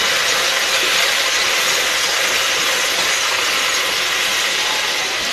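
Chopped tomatoes and onions sizzling in hot oil and ghee in a kadai as they sauté, a loud, steady hiss.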